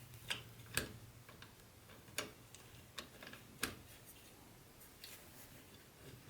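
Handling of HO-scale model train set pieces: five sharp clicks and taps, with a low steady hum that stops at the last click about three and a half seconds in.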